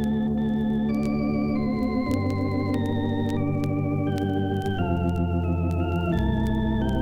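Organ music: a slow melody of held notes over sustained chords, with a light vibrato on some notes.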